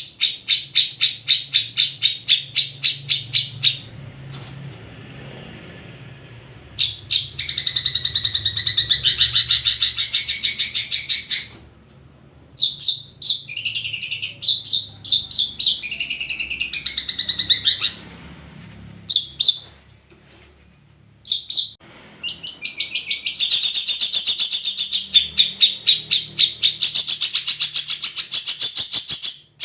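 Long-tailed shrike (cendet) singing in the fast, continuous 'ombyokan' style: long runs of sharp notes repeated about five times a second, broken by short pauses and by varied warbling phrases midway.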